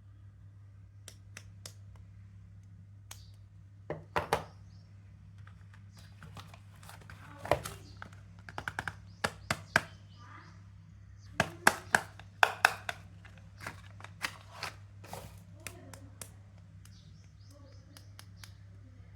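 Soap packaging being unwrapped by hand: crisp crinkles, crackles and light taps of wrapper and box. They come in clusters, the loudest about halfway through.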